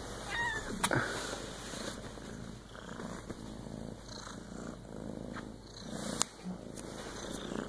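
A kitten purring close to the microphone, the purr swelling and fading about once a second, with a couple of sharp clicks.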